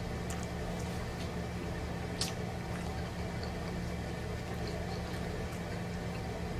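A person chewing pizza crust with their mouth closed, with faint wet mouth clicks and one sharper click about two seconds in, over a steady low background hum.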